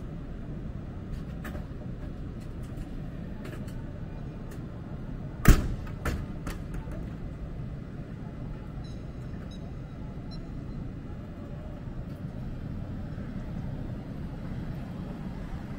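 Steady low rumble of a stationary commuter train standing at a station platform. One loud sharp knock comes about five and a half seconds in, with a lighter knock just after.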